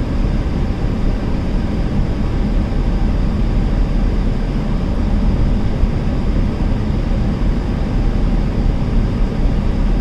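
Steady in-cabin road and engine noise from a 2-litre diesel Skoda cruising at 60 mph on the motorway: a deep rumble under an even hiss, with the windows closed and the air conditioning running.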